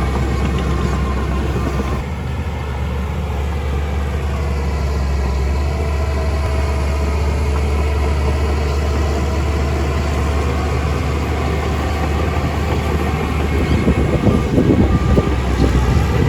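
Heavy diesel machinery engine running steadily under load, its pitch shifting slightly a few seconds in, with some clattering knocks near the end.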